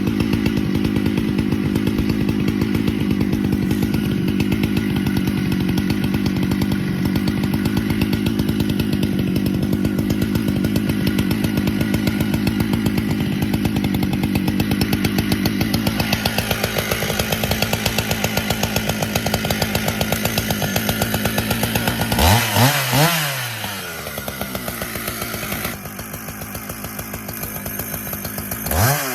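Husqvarna 395XP two-stroke chainsaw running steadily at high revs while bucking wood, its tone shifting about 16 seconds in. From about 22 seconds the throttle is blipped in a few quick rising-and-falling revs, dropping back to a lower, quieter running speed in between.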